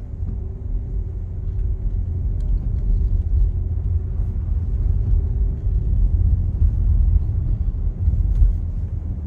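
Steady low road rumble of a car being driven, heard from inside the cabin, with a faint hum that fades about six seconds in.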